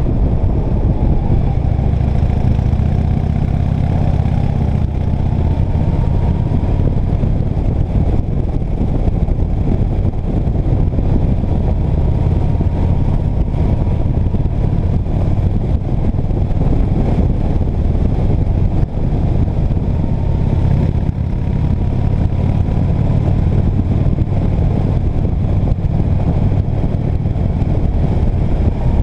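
Motor vehicle on the move, running steadily with a loud, unbroken low rumble.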